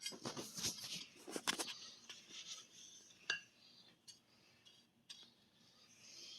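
Light clinks and scrapes of a kitchen utensil against a dish, busiest in the first two seconds, with one sharp clink a little over three seconds in and a few faint ticks after.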